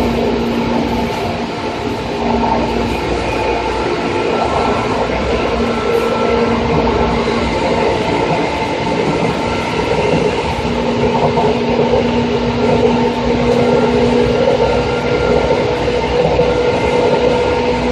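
Running sound of a Seibu 2000-series electric commuter train (set 2453F) heard from inside the car at a steady speed: a continuous rumble of running noise with a steady, unchanging motor and gear whine.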